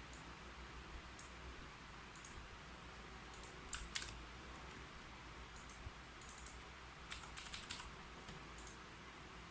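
Typing on a keyboard: scattered single keystrokes and short quick runs of keys, with two louder strikes about four seconds in and a fast burst of typing near the end, over a faint steady hiss.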